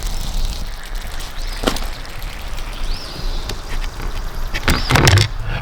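A bird gives a few short chirps that rise and fall, over a steady low outdoor rumble. A couple of knocks and a louder clatter of handling near the end.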